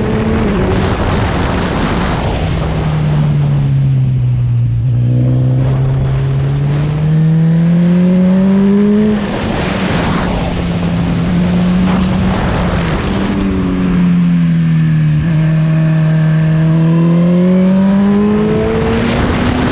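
Motorcycle engine running hard, its pitch falling and rising again several times as the throttle is rolled off and opened, with a sudden brief dip and step down in pitch about nine seconds in, as at a gear change.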